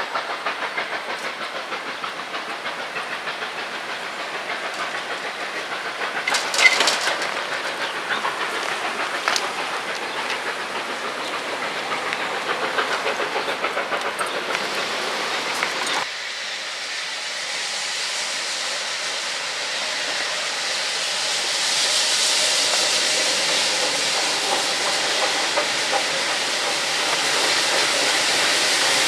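A steam locomotive working, with a rhythmic pulsing of exhaust beats and running gear and one short loud sound about a third of the way in. It changes abruptly into a steady hiss of escaping steam that swells towards the end.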